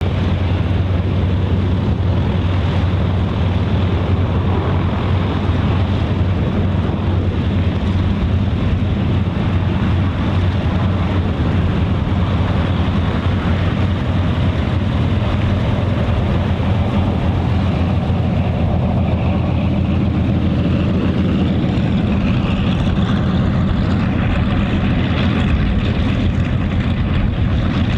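Lockheed P-38 Lightning's twin Allison V-1710 V12 piston engines running steadily at a low, even pitch with propellers turning, the level holding constant throughout.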